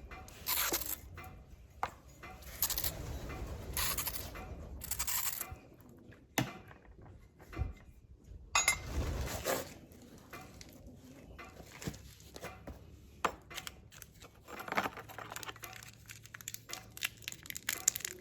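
Irregular clinks, knocks and scraping or rustling of metal parts and tools being handled, with a quicker patter of small clicks near the end.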